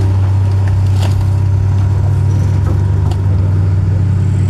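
A heavy engine running steadily with a deep drone, with a couple of faint knocks.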